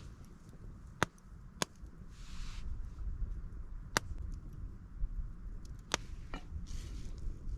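Wood campfire crackling, with single sharp pops a second or more apart and a couple of brief hisses.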